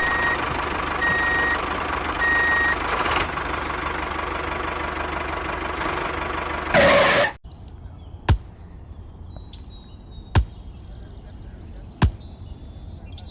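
A vehicle running loudly, with three short reversing beeps in the first few seconds. The noise cuts off suddenly about seven seconds in, leaving a faint hum and a sharp click roughly every two seconds.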